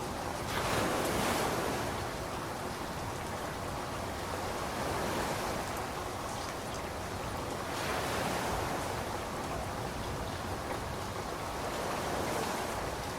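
Steady hiss of rainfall, swelling briefly louder about a second in and again around eight seconds.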